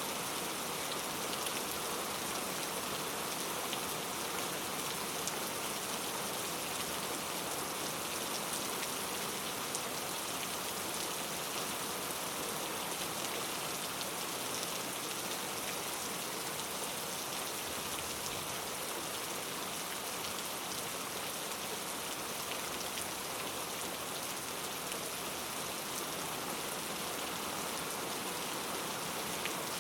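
Steady rain falling on rainforest foliage, an even hiss with scattered individual drop ticks.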